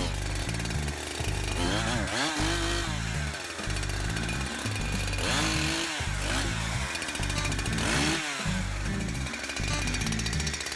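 Chainsaw revving and cutting, its pitch rising and dropping under load about three times, over background music with a steady beat.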